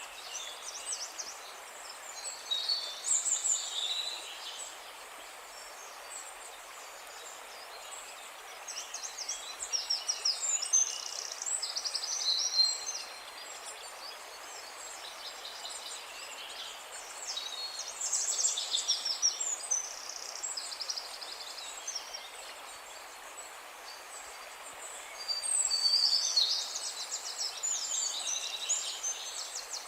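Songbirds singing in four separate bouts of quick, high chirps and trills, over a steady hiss of outdoor background noise.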